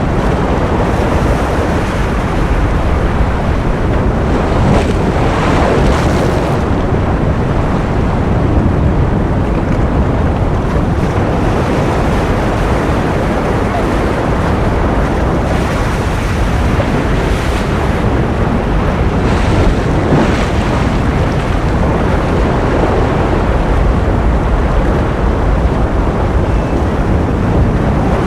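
Ocean surf: a steady wash of waves, with faint swells every several seconds.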